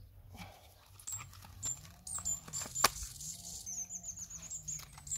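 Birds chirping in high, short repeated notes, with a few sharp clicks, the loudest about three seconds in.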